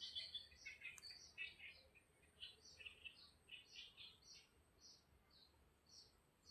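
Faint birdsong: small birds chirping, with a steady run of short, quick notes.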